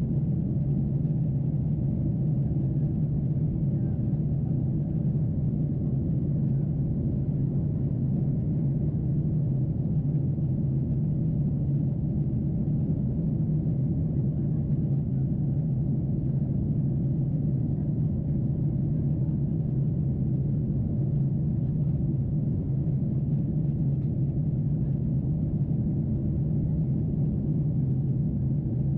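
Steady low cabin drone of a Boeing 747-8 in flight, its GEnx engines and the airflow past the fuselage heard from a window seat as one even, deep hum.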